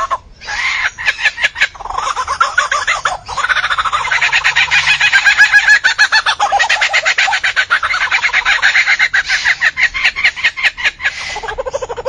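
A bird calling loudly in a fast, varied run of chattering, clucking trills whose pitch rises and falls, with a short break about three seconds in.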